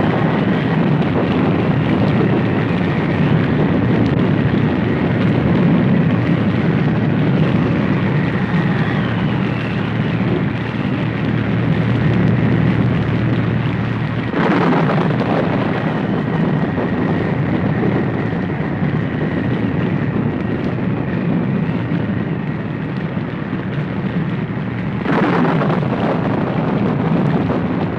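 A horror sound effect: a dense, continuous low rumble, swelling again about halfway through and once more near the end.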